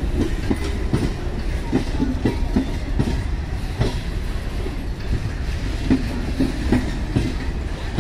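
A MEMU electric multiple-unit passenger train running past close by: a steady low rumble of the coaches with repeated clickety-clack as the wheels pass over rail joints.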